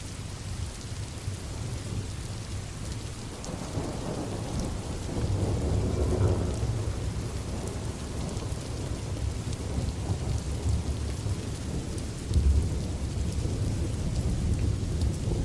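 Steady rain with the low rumble of rolling thunder underneath. The thunder swells about four seconds in and surges again near the end.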